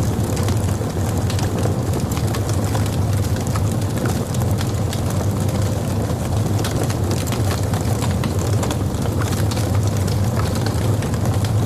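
Wood logs burning in a fireplace: a steady low rumble of the fire under frequent small crackles and pops.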